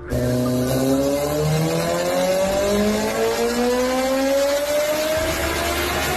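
Sport motorcycle engine accelerating hard, its pitch climbing steadily and stepping down a few times as it shifts up through the gears.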